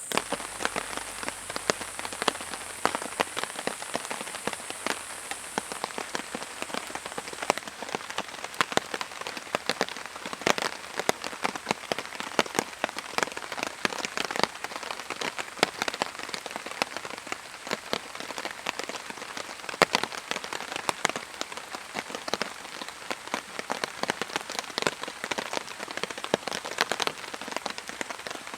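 Steady rain, with many sharp, irregular drop hits on a surface. A thin high steady tone runs beneath it and stops about seven seconds in.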